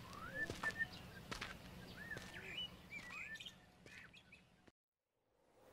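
Faint small birds chirping, a handful of short rising chirps over a low steady hum. The sound cuts off to silence about three-quarters of the way through.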